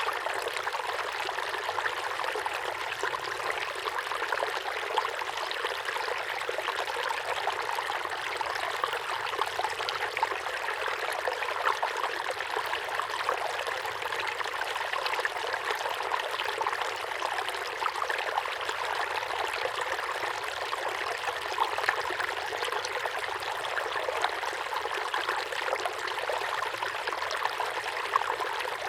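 Small waterfall pouring steadily into a pond, a constant splashing trickle with no breaks.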